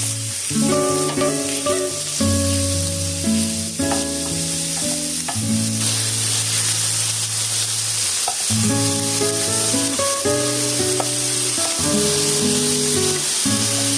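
Food frying in a pan, with a steady sizzling hiss, over background music made of slow held notes with a bass line.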